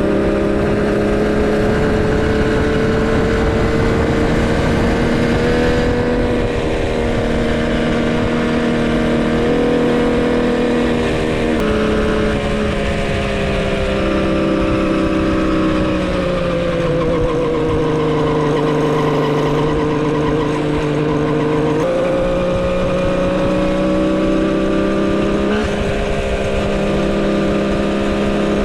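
Custom-built three-cylinder two-stroke motorcycle engine running under way during break-in, its pitch holding steady for stretches, shifting up and down in steps, sagging slowly and climbing back in the middle, then jumping up sharply about two-thirds of the way through.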